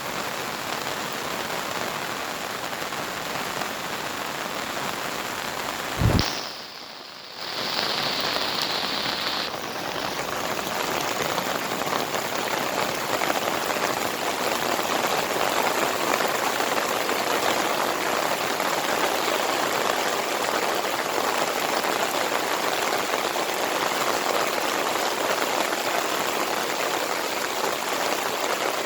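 Steady heavy monsoon rain falling and pattering on surfaces. About six seconds in there is a single sharp thump, then the rain sound drops away for about a second and a half before returning at full strength.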